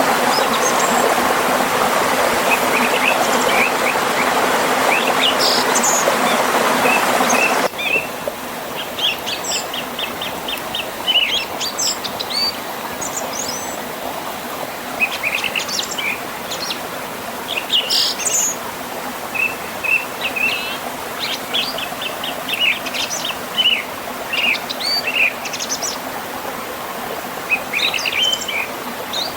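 Wild birds chirping and singing in many short calls over the even rush of flowing water. The water is loud at first, then drops abruptly to a softer stream sound about eight seconds in, while the birdsong carries on.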